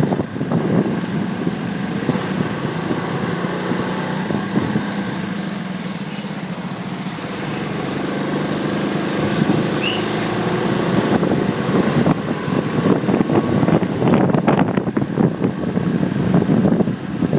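Motorcycle engine running, picked up by a phone mounted on the bike, with road and wind noise. Around the middle the engine settles into a steadier, slightly quieter hum. Near the end the sound turns rougher and louder again.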